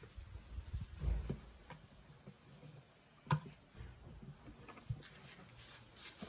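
Faint, scattered clicks and knocks of objects being handled, with a low thump about a second in and a sharper click a little after three seconds.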